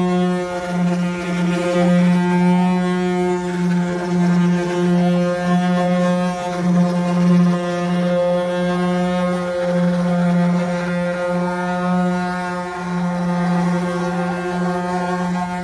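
Wooden ox cart 'singing': the wooden axle grinding in its wooden bearings as the cart rolls gives a loud, steady droning whine with several overtones, wavering slightly in pitch.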